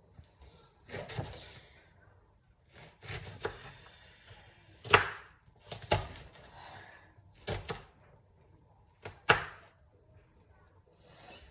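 Irregular sharp knocks and clatters of things being handled in a kitchen, about seven in all, the loudest about halfway through and near the end.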